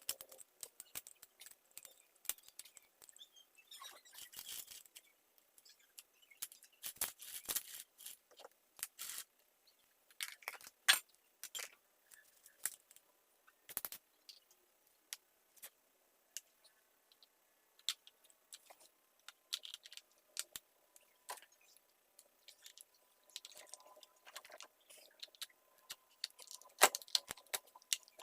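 Irregular small clicks, taps and light scrapes of hand-handled chainsaw parts and tools during cleaning, with a few sharper knocks about 11 and 27 seconds in.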